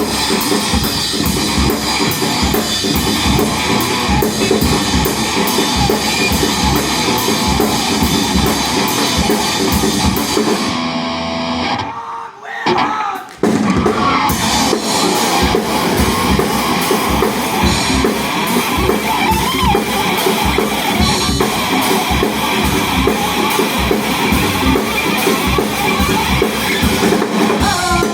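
Rock band playing an instrumental passage on drum kit and guitar. About twelve seconds in, the band stops dead for about a second and a half, then crashes back in.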